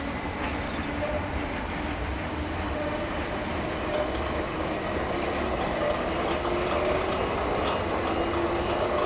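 Electric multiple-unit train running on the tracks: a steady rumble with a motor whine that rises slowly in pitch and grows a little louder over the last few seconds.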